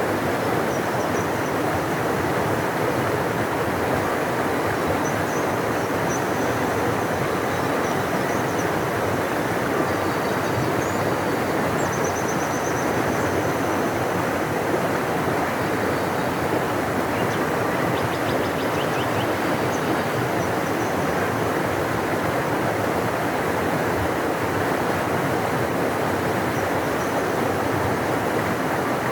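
Large river rushing in a steady, unbroken flow, with faint high chirps now and then.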